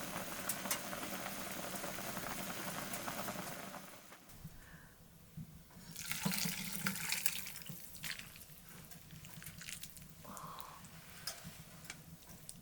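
Water running steadily, as from a tap, for about four seconds and then stopping; a brief louder splash follows a couple of seconds later, with a few small clicks and knocks.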